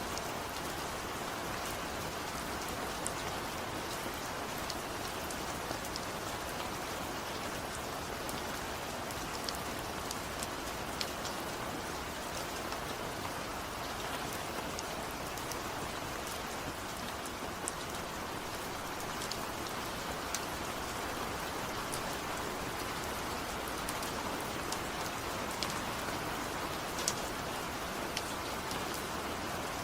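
Steady rain, an even hiss with scattered sharp drips and taps of drops striking a surface.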